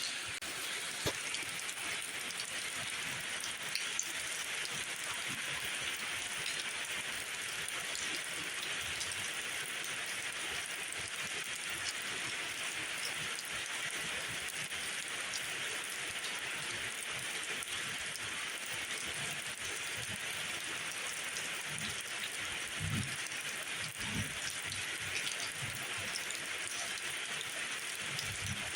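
Steady rain falling, a dense even hiss with scattered drops ticking on surfaces. A few soft low thumps come in the last third.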